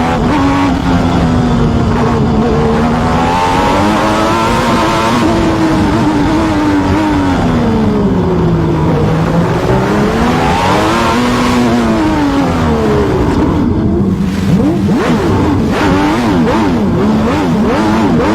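Early-1990s Formula One car engine heard onboard, its pitch climbing and falling as the car accelerates and slows. In the last few seconds the revs rise and fall rapidly, over and over.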